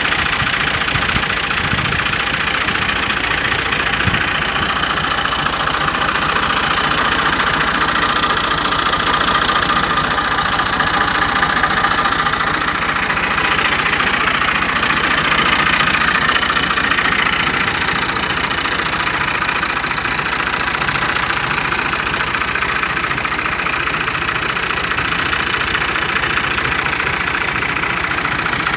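Fiat 480 tractor's diesel engine idling steadily.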